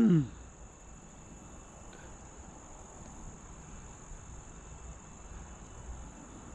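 Quiet creekside background: a steady high-pitched insect trill, such as crickets, over a low rumble. The tail of a loud shout cuts off just as it begins.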